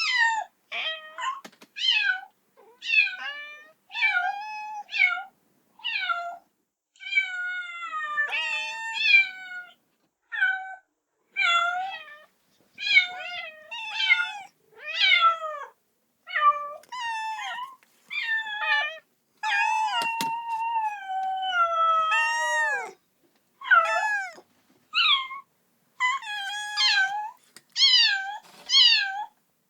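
A kitten meowing loudly and repeatedly, calling for its mother: a long run of high-pitched meows about one a second, most falling in pitch, with a longer drawn-out cry about twenty seconds in.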